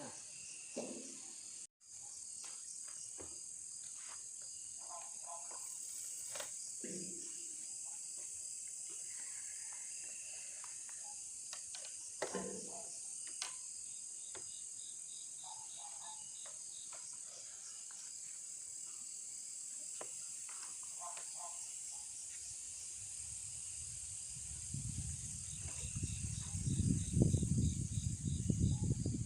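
Steady, high-pitched chorus of night insects such as crickets, with scattered clicks and a few short calls. A louder rough, rumbling noise builds up near the end.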